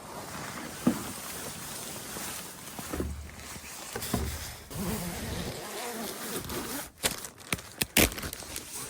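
Rustling and handling noises from fabric, with soft thuds and a cluster of sharp clicks near the end.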